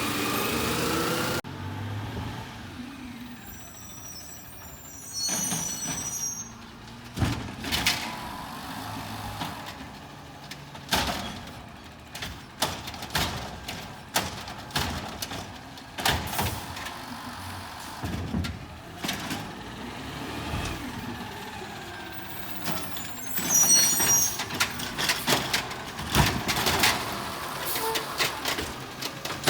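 Garbage truck at work: repeated clanks and knocks, with a couple of brief high squeals of the kind an air brake makes.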